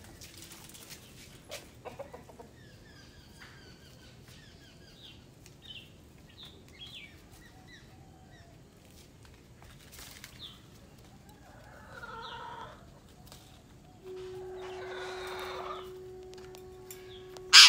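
Chickens clucking, with a run of short, high bird chirps in the first half. A steady low hum comes in near the end, and a sharp click near the end is the loudest sound.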